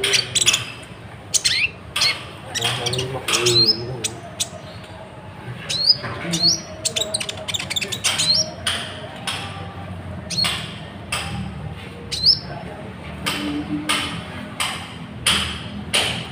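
Bird calls: many short squawks and chirps, each a quick rising sweep, coming irregularly.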